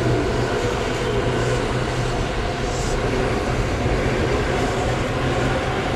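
Electric commuter train moving at the station platform: a steady running noise with a low hum, with no clear change in level.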